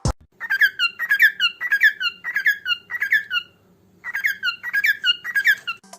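Male cockatiel singing its mating call: short bursts of gliding, squeaky chirps repeated about twice a second, with a brief break partway through. The call is given only by males and means the bird is ready to mate.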